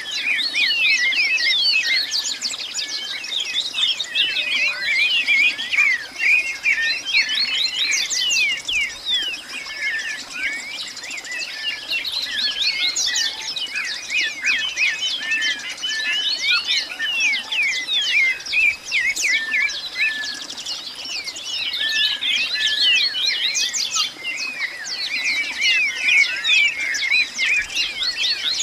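A dense chorus of many songbirds chirping and calling at once, an unbroken overlapping stream of short rising and falling notes with no pause.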